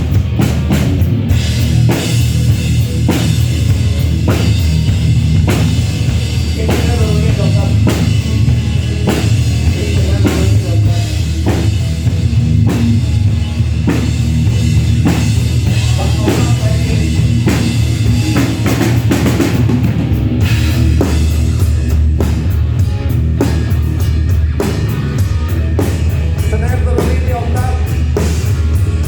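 Live rock band playing loudly, the drum kit to the fore with a steady beat of kick and snare over bass and guitar; the playing shifts briefly about two-thirds of the way through.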